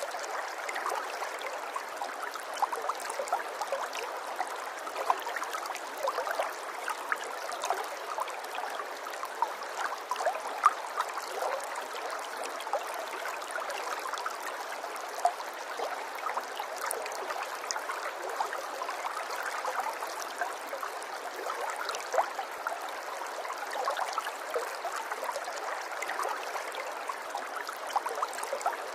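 Running water babbling steadily, with many small splashes and drips scattered through the flow.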